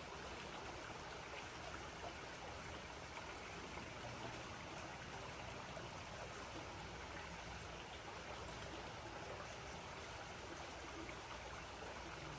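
Mountain creek flowing over its bed, a steady, faint rush of running water.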